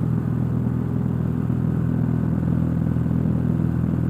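Cessna 172's piston engine and propeller running steadily during the climb after takeoff, an even low drone heard inside the cockpit.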